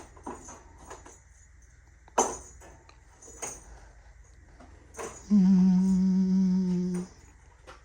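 A person humming one steady, even note for nearly two seconds near the end, after a few scattered soft knocks and taps.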